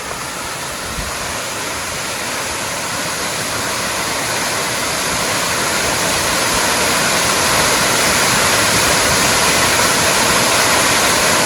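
Waterfall rushing, a dense steady roar of falling water that grows gradually louder.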